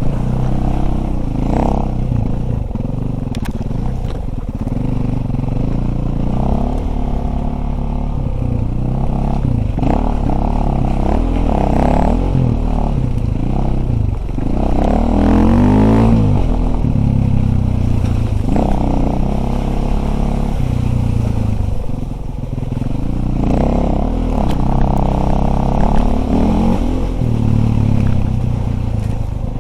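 Dirt bike engine running under load, its pitch rising and falling again and again as the throttle is opened and closed, loudest about halfway through.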